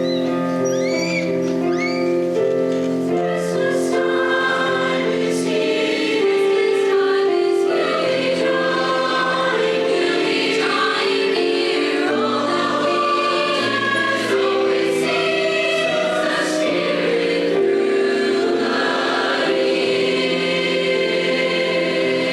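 High school choir singing in harmony, holding chords that shift every second or so.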